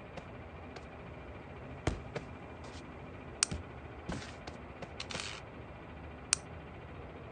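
Scattered light clicks and taps with a short rustle, the sound of small plastic toys being handled and set in place, over a steady low hiss.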